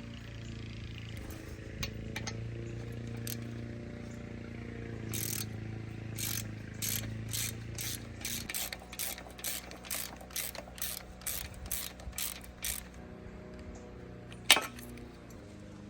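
A hand ratchet wrench clicking in an even run of about two to three clicks a second as a fastener is turned, over a steady low hum that stops about halfway through. A single sharp clack comes near the end.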